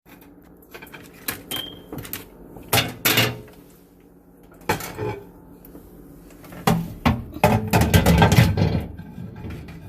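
Handling and cleaning of a microwave oven: scattered knocks and clicks of the door and parts being moved, a brief high tone about one and a half seconds in, and a dense stretch of clatter and rubbing near the end.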